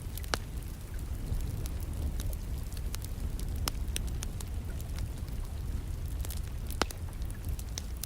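Wood fire in a fireplace crackling, with many irregular sharp pops, three louder than the rest, over a steady low rumble and the constant sound of distant rain.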